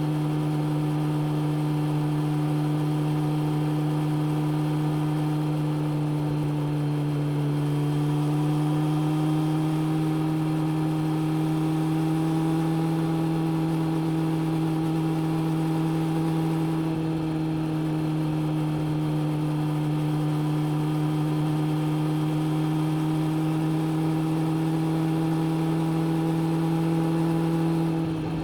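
Suzuki GSX600F's inline-four engine running at steady, held revs while cruising. Its pitch creeps up slightly about a third of the way in, then drops just at the end as the throttle eases.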